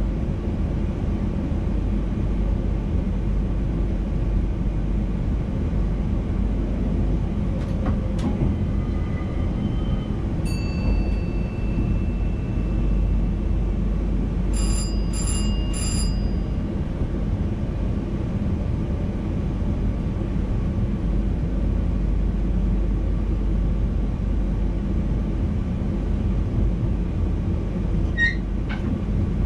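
Steady running rumble of an NS VIRM double-deck electric intercity train, heard from the driver's cab. About halfway through, three short high chimes sound in quick succession, with a few fainter single tones just before them.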